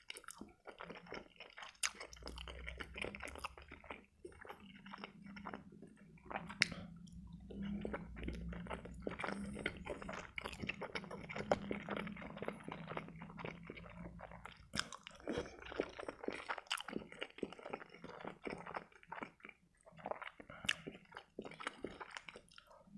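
Close-miked wet chewing and lip smacking of soft boiled pelmeni (Russian meat dumplings), with occasional sharper clicks.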